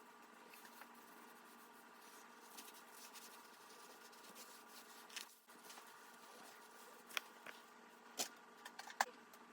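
Faint wiping and rubbing on a fridge surface during cleaning, with a few light clicks and taps in the second half, over a faint steady hum.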